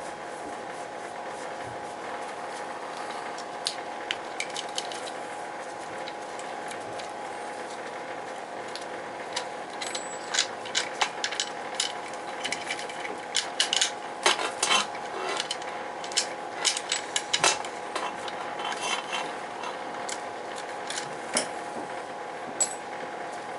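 Small metal parts and hand tools clinking and tapping during work on the boiler's control wiring, with scattered taps at first and a busy run of quick clicks in the middle, over a steady hum.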